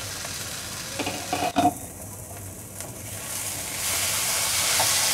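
Thick onion-tomato masala gravy sizzling in a nonstick kadai as it is stirred with a silicone spatula. The sizzle grows louder from about three and a half seconds in, and a few short knocks come a second or so in.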